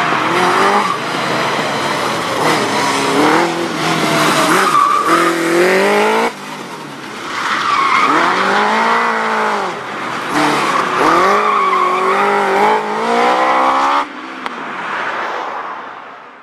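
Kawasaki GPZ1100 inline-four in a single-seat Cooper 500 replica racing car, revving hard in repeated surges, its pitch rising and falling as it accelerates and lifts off through a gymkhana run. The engine note drops off sharply twice and fades away near the end.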